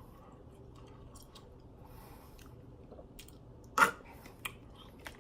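A person chewing candy, with small wet mouth clicks, and one sharp click about four seconds in, the loudest sound, followed by a smaller one.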